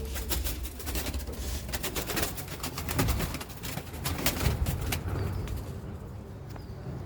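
Pigeons cooing in low, repeated calls over a run of quick clicks and rustles that die away about five seconds in.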